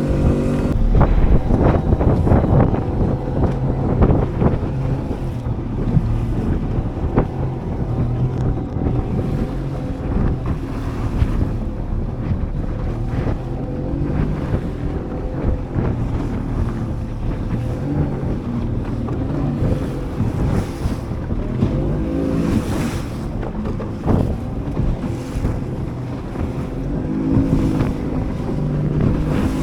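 Motorboat engine running steadily under way, with wind buffeting the microphone and water rushing past.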